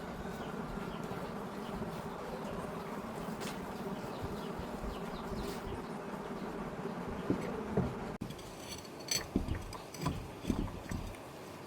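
A steady buzzing drone of a running motor, which cuts off abruptly about eight seconds in, followed by several sharp knocks and clanks.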